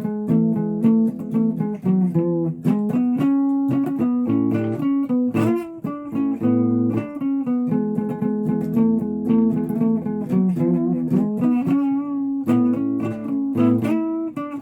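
Guitar being played: a melodic line of plucked single notes mixed with chords, going on without a break.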